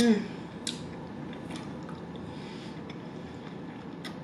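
Close-up eating sounds: a mouthful of tomato, mozzarella and basil being chewed, with a brief hum right at the start and a few soft, sharp mouth clicks and smacks over a steady hiss.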